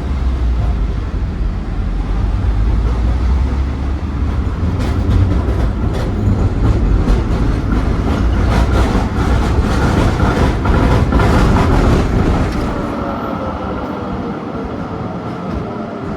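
Tram running on its rails, heard from inside the car: a steady low rumble with a run of clicks and knocks from the wheels over the track in the middle, then a falling whine near the end.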